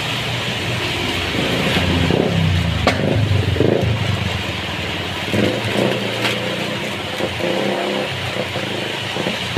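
Heavy rain falling steadily, with a motor vehicle's engine passing through it, loudest about two to four seconds in.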